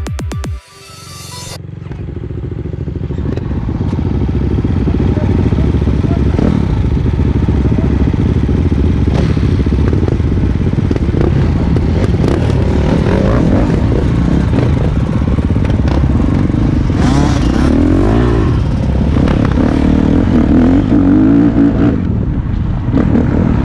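KTM dirt bike engine running hard, its pitch rising and falling as the throttle is worked, loudest with revving sweeps in the second half. An electronic music track cuts off in the first second.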